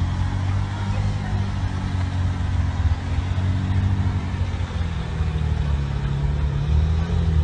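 Car engine running under load with a steady low drone, its pitch wavering a little in the middle, as the car struggles for grip on a snow-covered road.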